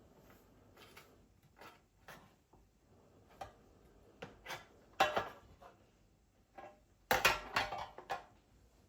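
Dishes and kitchen utensils knocking and clinking as they are handled: a string of separate knocks, the loudest about halfway through, then a quick run of clatters near the end.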